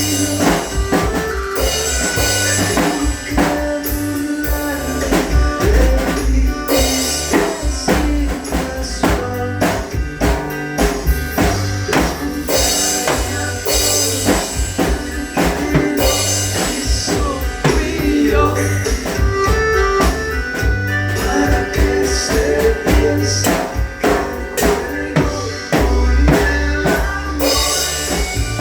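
Drum kit played along to a recorded ballad's instrumental section, with steady drum strokes and cymbals over guitar and bass.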